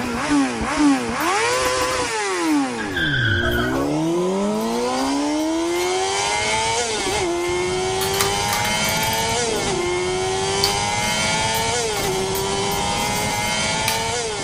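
Motorcycle engine sound revving up and down a few times, then accelerating hard, the pitch climbing and dropping back at each gear change about every two and a half seconds.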